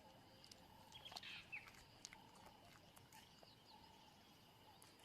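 Faint natural bush ambience: thin steady high tones with scattered small chirps and clicks, and a brief, slightly louder bird-like call about a second in.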